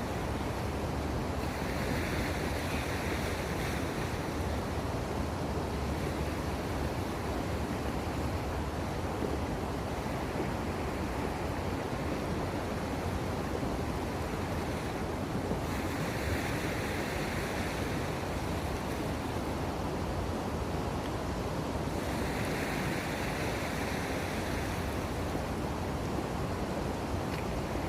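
Steady wash of sea waves at the shore, with wind on the microphone; a brighter hiss swells up for a few seconds three times.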